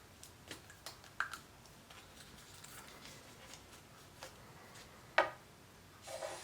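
Quiet tracing around a small paper template on folded construction paper: light pen scratches and taps as the paper is handled, with a sharper click about five seconds in.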